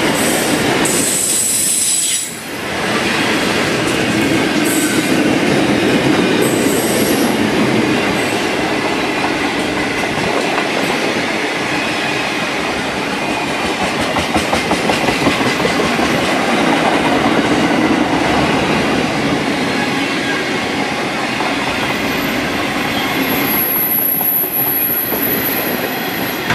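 Freight wagons of a steel train rolling past: a steady rumble and rattle of steel wheels on the rails, with brief high wheel squeals in the first several seconds and a thin, steady high squeal over the last few seconds.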